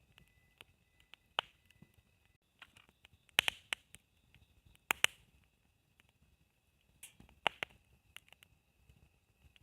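Wood burning in a campfire, crackling with irregular sharp pops, a few of them loud.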